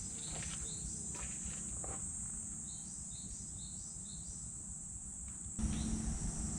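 Steady, high-pitched drone of summer insects, with short repeated chirps in the middle and a few soft knocks in the first two seconds.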